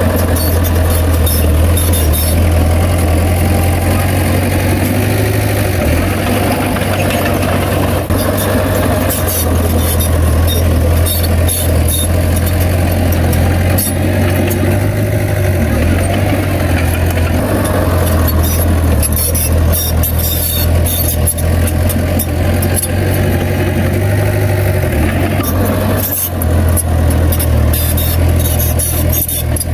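Heavy diesel earthmoving machinery running steadily with a strong low engine drone, and many short sharp clicks and clanks over it.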